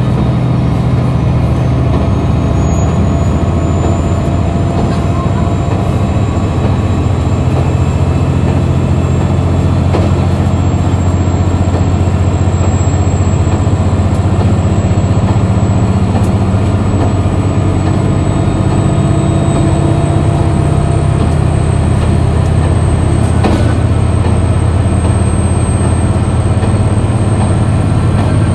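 KiHa 261 series diesel railcar's engine running steadily under power, a heavy low drone with a thin high whine that climbs slowly in pitch throughout.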